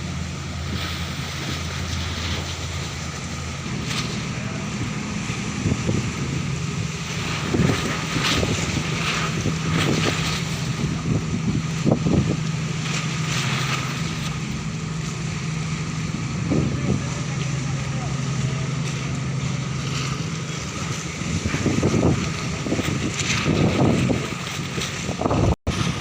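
Heavy diesel engines running with a steady low drone, amid wind buffeting the microphone and scattered knocks and clanks.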